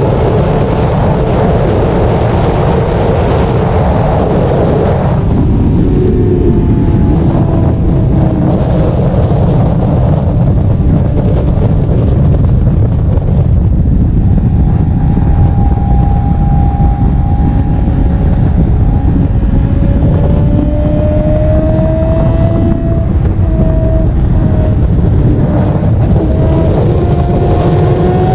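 Honda CBR1000RR inline-four engine running at high speed, its note rising and falling with the throttle and climbing slowly in the second half, under heavy wind rush on the microphone.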